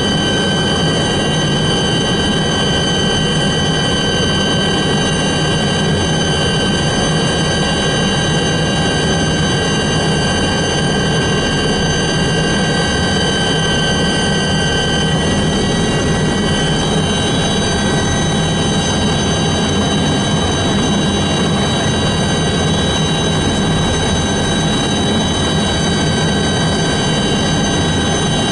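A helicopter's turbine engines running at steady power: a loud, even roar with several steady high whines over it.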